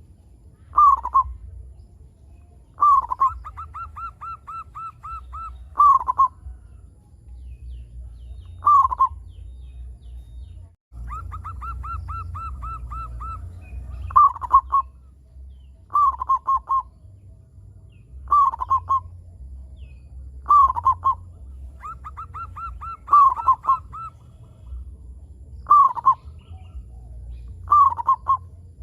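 Zebra dove (perkutut) cooing: loud short coos that drop in pitch, repeated every one to three seconds, several of them led by a rapid run of short clipped notes.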